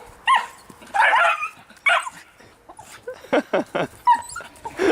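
A dog barking and yipping in a string of short calls, several of them sliding down in pitch about three seconds in.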